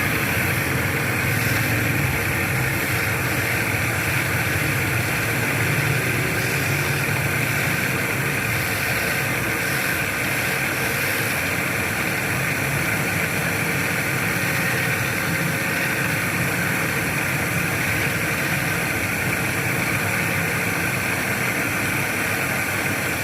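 Wood lathe running steadily while turning a wooden workpiece: a constant low hum with a steady hiss above it.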